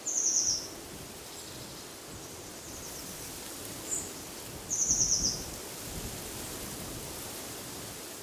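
A bird gives two short, rapid high trills about five seconds apart, with a brief high note just before the second. Steady wind rustles the leaves beneath them.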